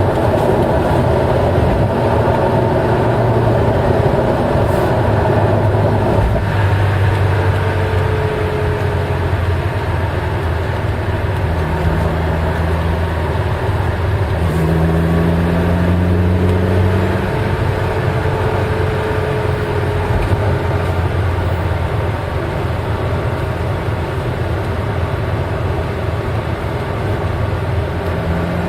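Eight-cylinder car engine running steadily under way, a continuous drone mixed with road noise. The sound eases slightly about six seconds in.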